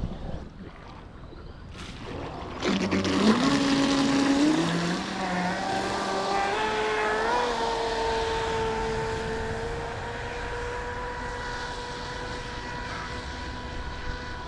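Large-scale RC racing boat's brushless electric motor whining as the boat takes off hard about three seconds in, the pitch climbing in steps, then holding a steady high whine over a rushing hiss of water as the boat runs away and slowly fades.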